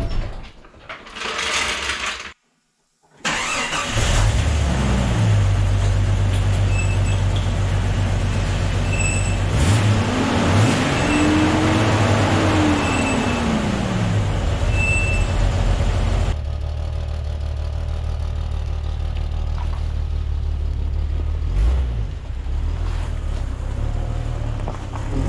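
1999 Jeep Cherokee's replacement inline-six engine running, revved up once and back down about ten seconds in, then running more quietly near the end. A faint high chirp comes every couple of seconds while it runs loudest.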